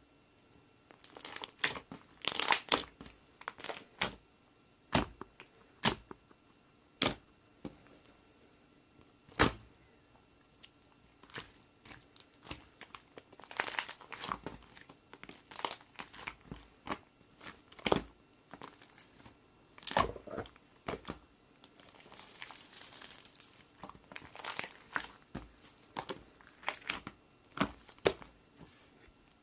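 Mixed slime being squished, pressed and stretched by hand, giving irregular crackling pops and clicks, with a stretch of softer crinkly crackling a little past the middle.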